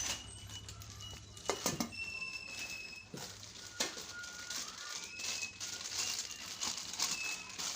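Clicks and knocks of plastic mixer jars and packaging being handled, with several short, high chirps in the background.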